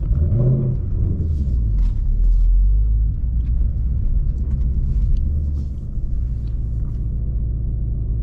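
Twin-turbo Ford Mustang's engine running at idle, with a short rise and fall in pitch about half a second in and a louder stretch around two to three seconds in.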